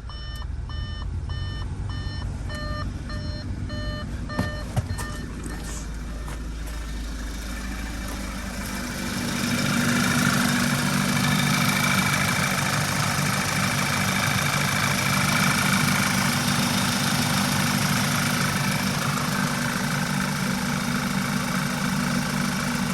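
2014 Audi A4 interior blower fan comes up to speed about nine seconds in and then runs steadily at a high setting, a loud rush of air with a low hum. For the first few seconds a dashboard warning chime beeps in a quick, even repeat.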